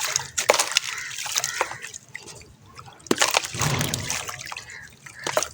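Handmade sand-cement shapes crumbling in water: sharp cracks as pieces break off, over a fizzing crackle and sloshing water. A heavier slosh comes about three and a half seconds in.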